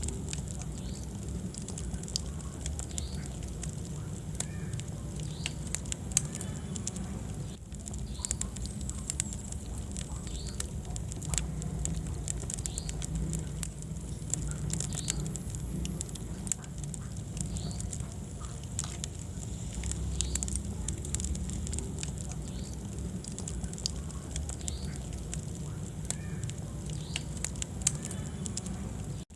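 Wood fire burning in a fireplace: many sharp crackles and pops over a steady low rumble of the flames.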